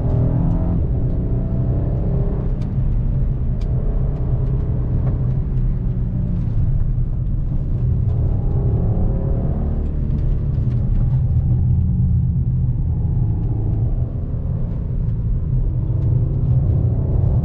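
Volkswagen CC's 3.6-litre VR6 engine running while driving, its pitch rising and falling a few times as the revs change, over a steady low road rumble.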